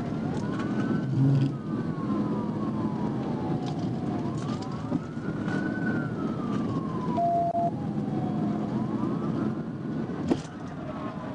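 Police siren wailing in slow rise-and-fall sweeps, about one every four to five seconds, over steady engine and road noise from the pursuing patrol car.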